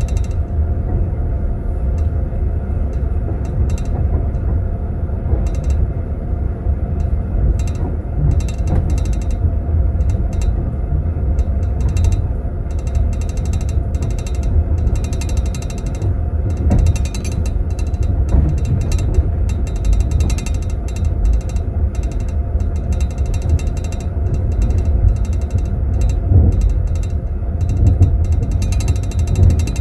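Inside a moving passenger train compartment: a steady low rumble of the wheels on the track, with teaspoons jingling and rattling in tea glasses in metal glass holders throughout.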